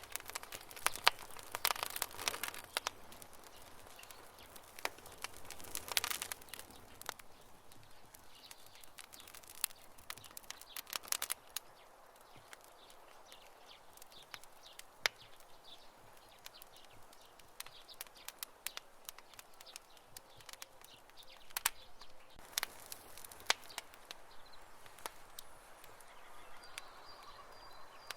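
Campfire wood crackling and popping: irregular sharp snaps, bunched in flurries within the first few seconds, again around six seconds and near the middle, over a soft steady hiss of burning.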